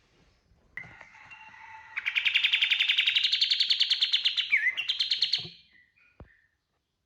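Kapas tembak songbird singing its 'tembakan', a loud burst song of very fast repeated notes. It starts softly about a second in, goes loud about two seconds in, climbs a little in pitch, then cuts off, with one short call after.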